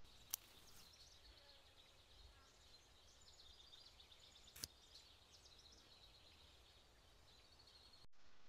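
Faint birds chirping, many short high calls, with two sharp clicks, one near the start and one about halfway through. The sound cuts off suddenly near the end.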